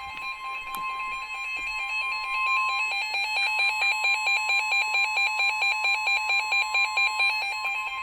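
Weather radio alert for a high wind warning: a steady attention tone near 1 kHz under a pulsing two-pitch alarm beeping about three times a second. It grows louder over the first few seconds and stops just as the broadcast voice begins.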